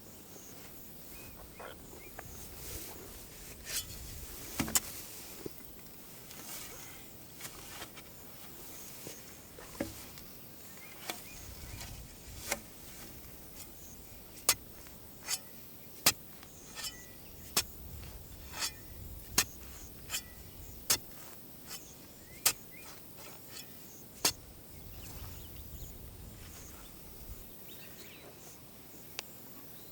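A series of sharp knocks, about one every second through the middle stretch with a few scattered ones before, over a faint outdoor background with a few short bird chirps.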